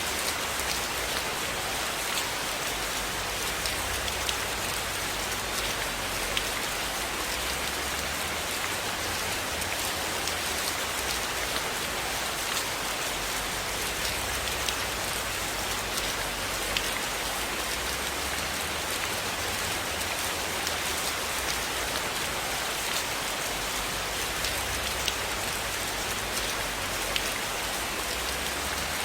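Steady rain falling without a break, an even hiss with scattered sharp drop ticks throughout.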